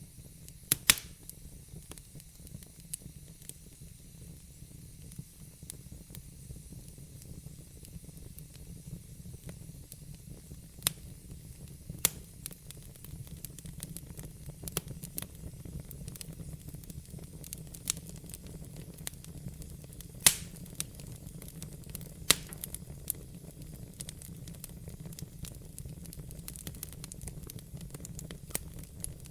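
Wood fire burning in a fireplace: a steady low rumble and hiss of the flames, broken by sharp crackles and pops, the loudest about a second in and near 12, 20 and 22 seconds in.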